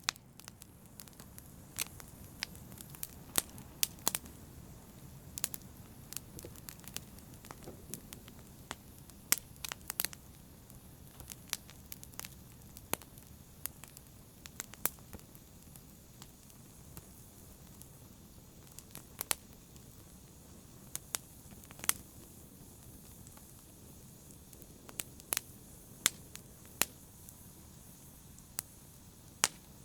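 Wood fire burning in a fireplace: sharp, irregular crackles and pops over a low, steady rumble of the flames.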